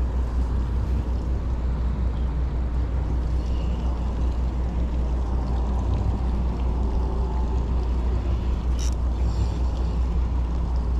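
Steady low rumble with a faint hiss over it, and a single short click about nine seconds in.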